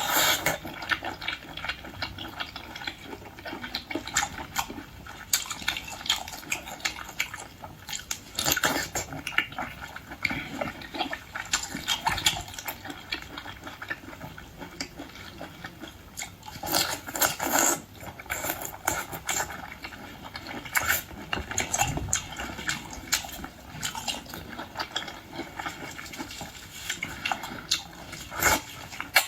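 Close-miked mouth eating sounds: chewing and slurping seafood, with irregular wet smacks and clicks.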